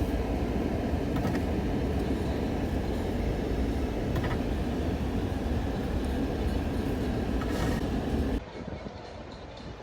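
Pickup truck driving slowly through a low-ceilinged parking garage: a steady low engine and tyre rumble with a few faint ticks. The rumble cuts off abruptly about eight seconds in, leaving a quieter hum.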